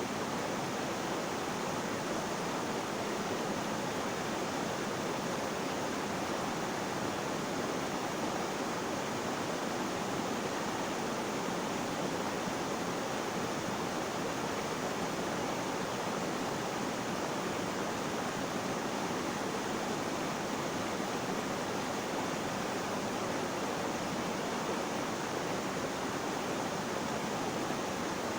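Flowing water making a steady, even rushing noise that does not change.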